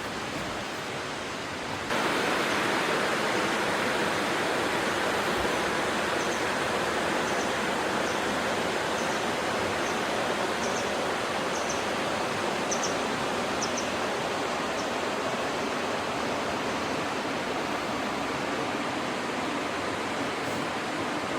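Steady rushing outdoor noise, stepping up abruptly about two seconds in and then holding steady, with a few faint high chirps in the middle.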